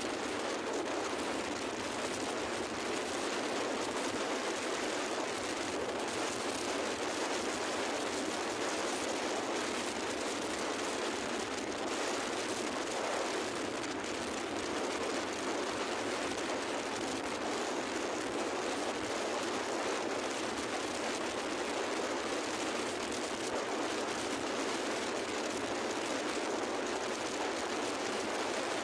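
Steady rushing of wind and water on a moving boat, even and unbroken, with no engine beat standing out.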